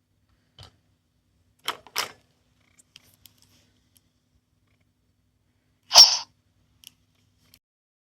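A few plastic clicks from a small sound-making capsule toy being handled and pressed, then one loud, short burst of noise about six seconds in.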